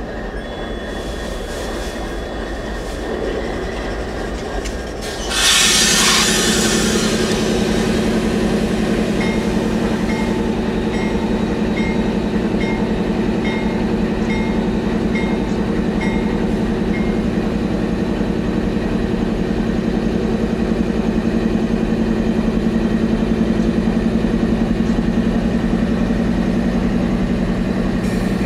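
Freight train's diesel locomotives arriving and rolling by. A brief loud rush about five seconds in, then a strong, steady low engine drone that holds on as the train keeps moving.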